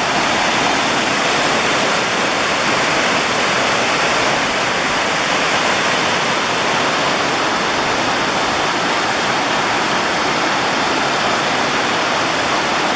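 Small river waterfall rushing loudly and steadily, its water pouring over rocks; it is awfully noisy for a small falls.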